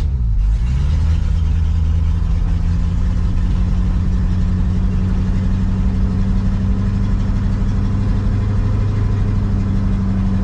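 1966 Ford truck's V8 running cold on choke just after a cold start, held at a steady fast idle on the throttle. Its speed sags briefly in the first second, then picks back up and holds steady.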